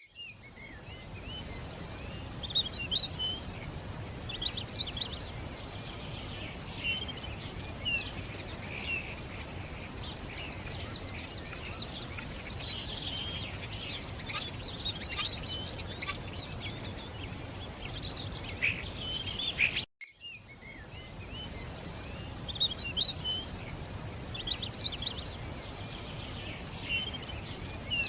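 Small songbirds chirping and twittering, many short high calls overlapping, over a steady background hiss. The sound drops out briefly about twenty seconds in, then the chirping resumes.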